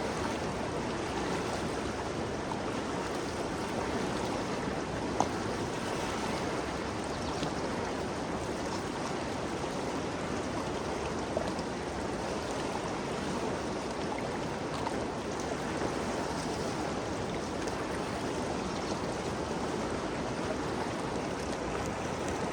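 Ganges River flowing: a steady, even rush of water. A short sharp click sounds about five seconds in, and a smaller one near the middle.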